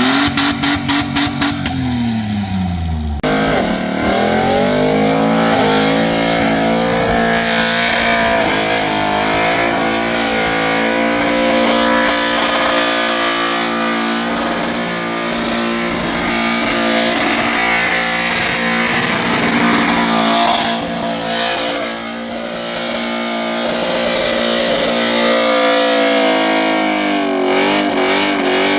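V8 muscle car engine doing a burnout: it revs in quick stuttering bursts for the first few seconds, then is held at high revs for over twenty seconds while the tyres spin and squeal, with a brief dip in revs about three-quarters through.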